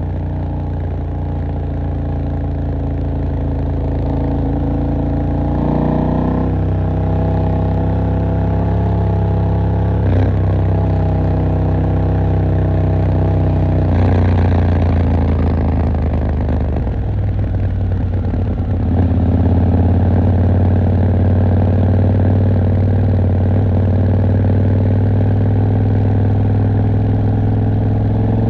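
KTM 890 Duke R's parallel-twin engine running at low, fairly steady revs, as at idle or slow riding in traffic, with a few small shifts in pitch. Near the end the revs begin to rise.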